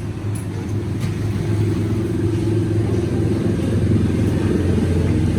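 A 260 tractor engine running steadily. Its cylinder sleeves (liners) have started knocking, according to the mechanic.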